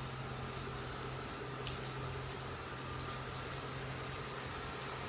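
2005 Chevrolet Suburban idling steadily: an even low hum under a hiss, with a few faint ticks.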